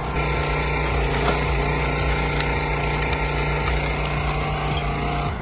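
Engine of a firewood-processing machine running at a steady speed, with a constant drone and a few faint knocks.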